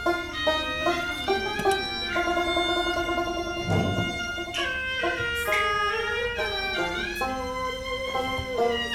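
Cantonese opera instrumental music: bowed strings carry a melody over plucked strings, moving note to note, with a low thump about four seconds in.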